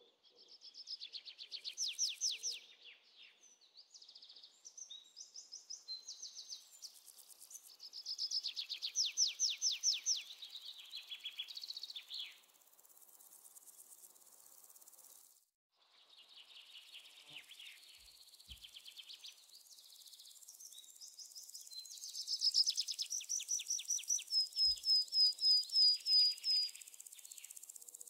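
Birds singing in phrases of rapid, repeated high-pitched trills and chirps, with a brief break near the middle.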